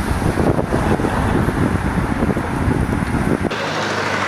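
Outdoor street ambience: wind rumbling on the microphone over traffic noise. About three and a half seconds in, it cuts abruptly to a steadier engine hum.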